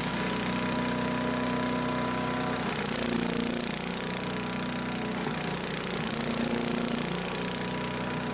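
Earthquake 212 chipper shredder's small gas engine running steadily while it shreds leaves, with a steady hiss over the engine note. Its tone shifts briefly a couple of times as the load changes.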